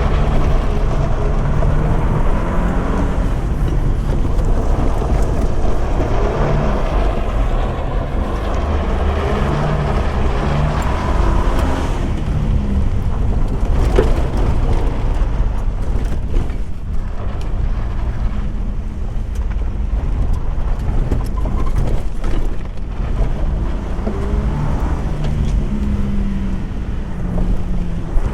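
Holden Rodeo prerunner driving off-road: the engine runs with its note shifting up and down as it speeds up and eases off, over a heavy low rumble. A single sharp knock about halfway through.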